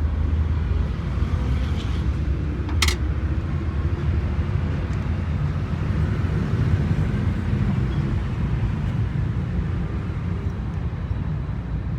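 Steady low machine rumble with one sharp click about three seconds in.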